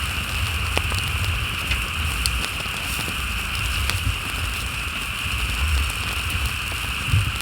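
Pork belly sizzling on a grill over a campfire: a steady hiss with scattered crackles and pops from the fat and the fire.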